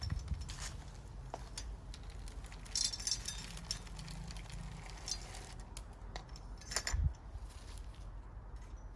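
Handling noises as bird food and feeding dishes are set out: rustling and light clinks, a busier rustle about three seconds in and a sharp knock about seven seconds in.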